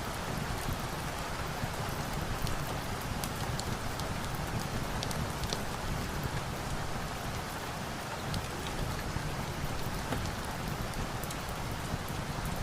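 Steady rain, with scattered small crackles from a wood fire mixed in.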